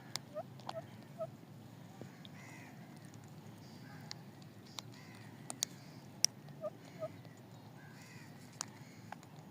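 Green parrots giving short, scattered squawks and chirps over a steady low hum, with a few sharp clicks in between.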